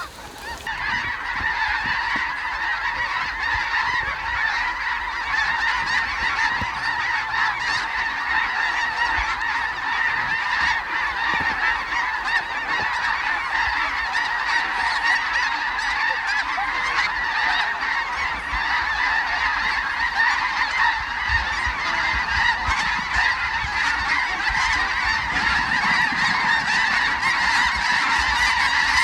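A huge flock of snow geese calling, a dense, unbroken din of overlapping high honks, growing slightly louder toward the end.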